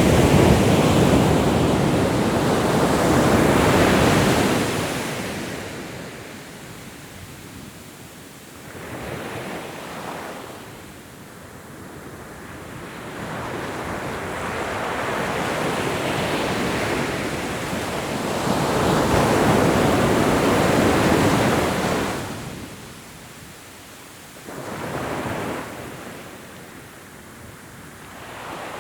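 Ocean waves breaking and washing up a shore in slow surges. A loud wash at the start fades out by about six seconds in. A small swell comes about ten seconds in. A long build leads to a second big wash around twenty seconds, which drops away sharply, and a brief smaller surge follows.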